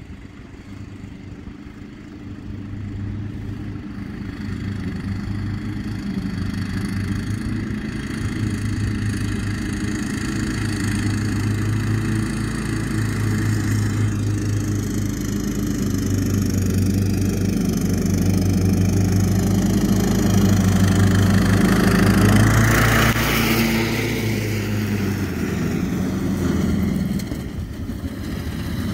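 Cub Cadet LT42 riding lawn mower's engine running steadily under way, growing louder over about twenty seconds as the mower comes closer. A brief rush of noise comes about twenty-two seconds in, and the engine eases off slightly near the end.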